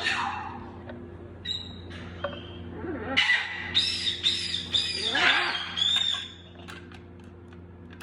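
Baby parrots squawking: a run of about half a dozen short, high calls from about three seconds in, with a few fainter chirps before them.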